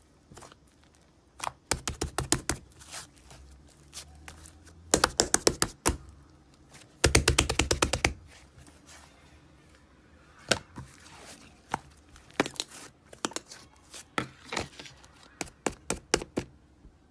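Slime being squished and poked by hand, giving runs of rapid clicking pops from trapped air about two, five and seven seconds in, with scattered single clicks between and after.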